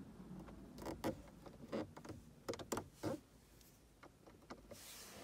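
Faint handling noises from a small vinyl decal being fitted onto a car's start/stop button: scattered light clicks and taps, most of them between one and three seconds in, and a brief rustle near the end.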